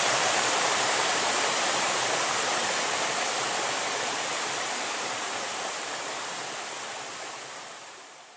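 Waterfall: a steady rush of falling water, fading out gradually and then dropping away quickly near the end.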